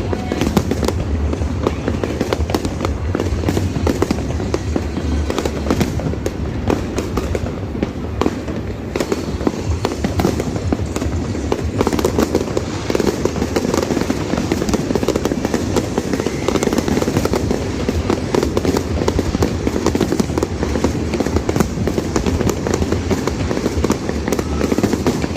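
Fireworks display going off without a break: a dense barrage of bangs and crackling from many shells bursting at once.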